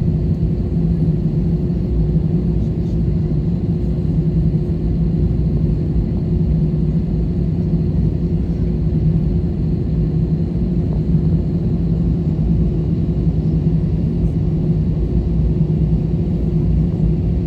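Steady cabin drone and rumble inside an Airbus A320 on the ground after landing, with a constant low hum that holds unchanged.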